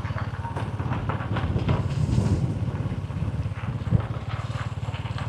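A small engine running steadily with an even low throb, with one sharp knock about four seconds in.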